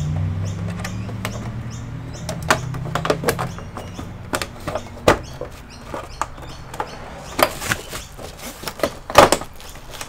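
Plastic back cover of an all-in-one PC being pressed into place, its clips snapping and clicking irregularly, with the loudest snaps near the end. A low hum fades out over the first few seconds.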